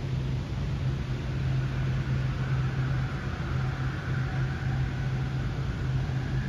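AirTrain JFK car, driven by linear induction motors, pulling out of the station behind the platform screen doors. It gives a steady low hum and a rushing noise, with a faint whine that climbs slowly in pitch.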